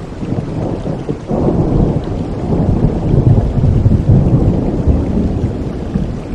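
Thunder rumbling through steady rain: a long deep roll swells about a second and a half in and keeps rolling under the hiss of the rainfall.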